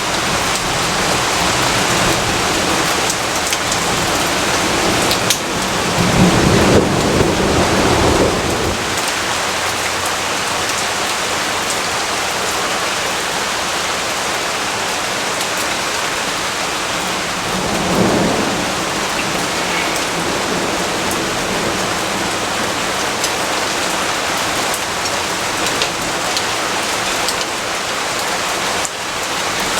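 Steady heavy rainfall with thunder rumbling twice: a longer rumble about six seconds in and a shorter, weaker one around eighteen seconds.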